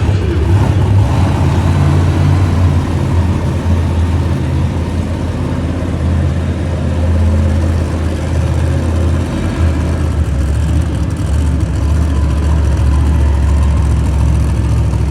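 Monster truck engine running loud and steady at a low pitch, its revs shifting slightly now and then.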